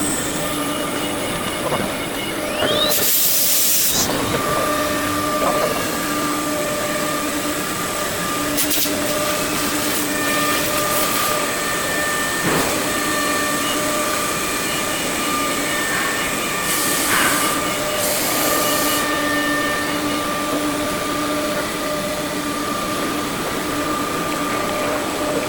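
5-axis CNC machine running, its axis drives whining in steady tones that start and stop every second or two as the machine moves. There are a few short bursts of hissing air, the loudest about three seconds in and another pair around the middle.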